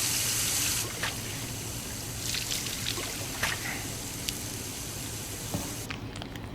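Running water pouring and trickling steadily, with a few small clicks, cutting off suddenly near the end.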